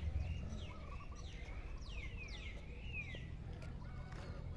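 Several birds calling: a run of short, clear whistled notes that slide down and up, over a low steady rumble.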